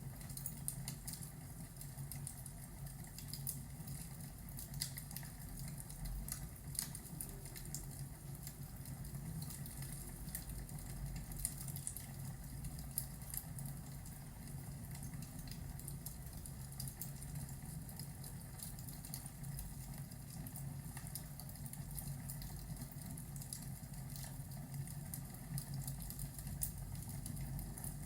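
Fireplace ambience: irregular small pops and snaps of burning wood over a steady low rumble.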